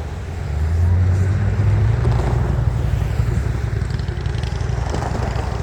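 Diesel locomotive of a Florida East Coast freight train running, a steady low drone whose pitch steps up about two seconds in.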